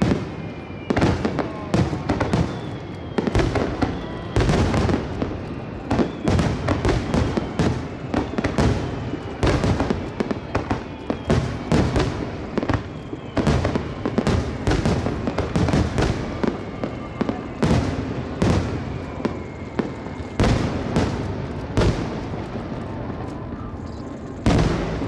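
Underwater fireworks bursting in rapid succession: a dense string of sharp bangs, several a second, with faint whistling tones gliding slowly down in pitch. The bangs thin out toward the end, with one last loud bang near the close.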